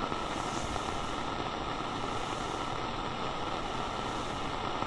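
Steady radio static hiss with no pitch or rhythm, the open-channel noise of a walkie-talkie between transmissions.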